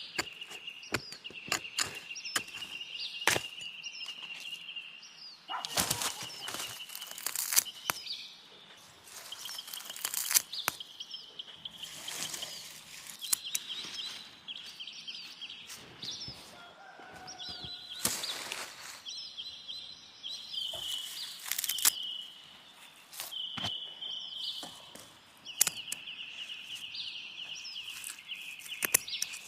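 Outdoor ambience: a steady high trill from birds or insects comes and goes in stretches of a few seconds, with frequent sharp snaps, crackles and rustles over it.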